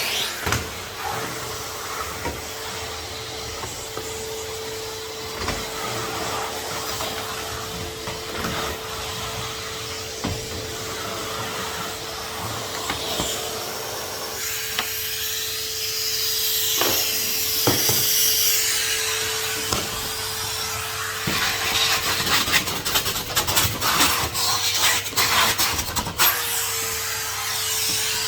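Henry HVR200 620 W vacuum cleaner running, its motor giving a steady whine while the nozzle scrapes and knocks against the floor and edges, with a flurry of rapid clattering knocks near the end.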